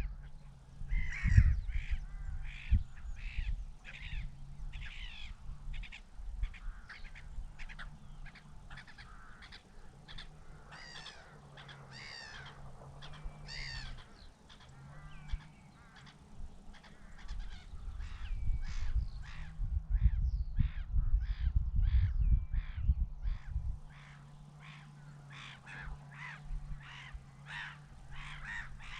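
A flock of birds calling over and over in short calls that come faster in the second half, over a low rumble.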